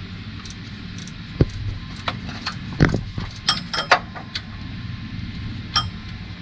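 Metal hand tools clicking and knocking against engine parts, with a few bright ringing metallic clinks, over a low steady hum.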